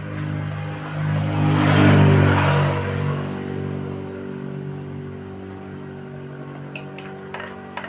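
A motor vehicle's engine passing close by, growing loudest about two seconds in and then slowly fading, with a few light clicks near the end.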